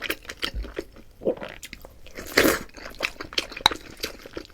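Close-miked chewing of a mouthful of fried rice with garlic scapes and egg: wet mouth clicks and smacks with light crunching, and one louder burst about halfway through.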